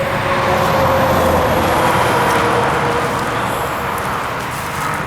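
A road vehicle passing by: tyre and engine noise swell, then slowly fade, with a faint tone sliding down in pitch.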